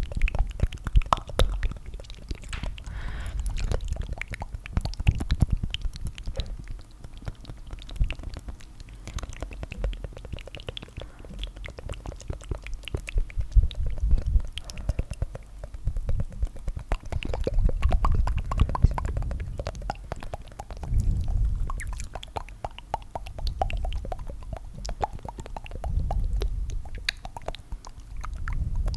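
Layered, close-miked ASMR tongue fluttering: several overlapping tracks of rapid, wet mouth clicks and flutters, with a low rumble that swells and fades every few seconds.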